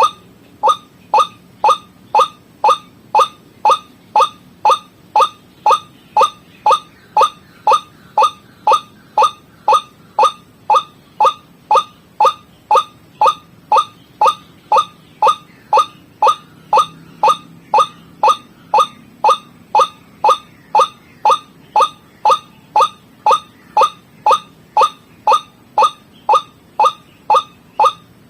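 White-breasted waterhen lure call: a short, sharply falling note repeated evenly about twice a second.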